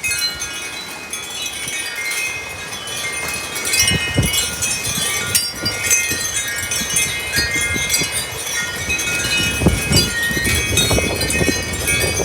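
Wind chimes jangling steadily in strong storm wind, many ringing tones overlapping, with low gusts of wind buffeting the microphone from about four seconds in and again near the end.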